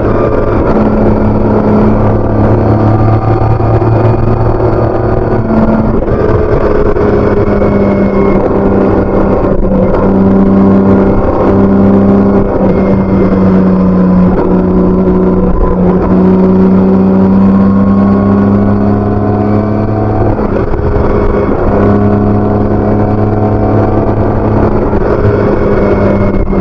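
BMW K1600B inline-six engine running through its stock exhaust while the bike is ridden, a steady engine note that dips and shifts in pitch a few times.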